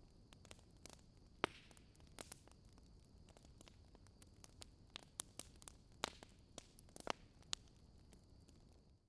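Wood fire crackling quietly: irregular sharp pops and snaps over a faint steady hiss.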